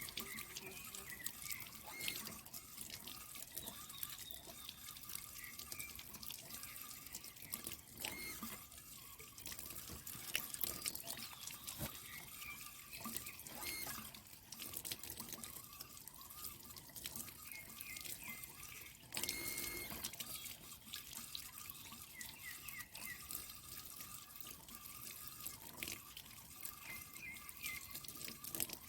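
Water splashing and dripping, with scattered knocks and clicks, as the filter of a stream-fed water tank is cleaned.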